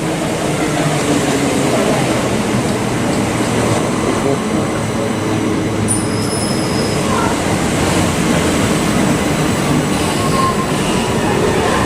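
Southeastern Class 375 Electrostar electric multiple unit running along the platform: a loud steady rumble of wheels on the rails, with a brief high squeal about six seconds in.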